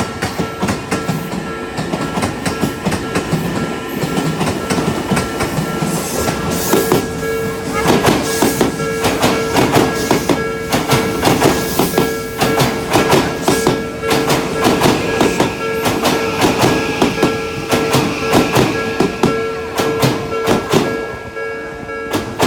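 Odakyu Line electric train passing over a level crossing, its wheels clacking rapidly over the rail joints; the clatter is busiest from about a third of the way in until near the end. Under it the crossing's warning bell rings steadily.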